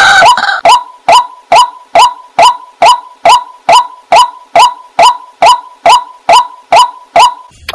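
Waterhen calling, one short call repeated steadily about twice a second.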